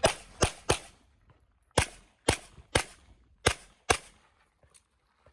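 Handgun fired eight times in quick strings: three shots, a pause of about a second, then five more in rapid pairs, as in a practical shooting stage.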